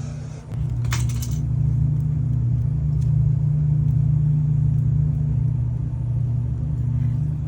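A steady, loud low machine hum that steps up in level about half a second in, with a brief hiss about a second in.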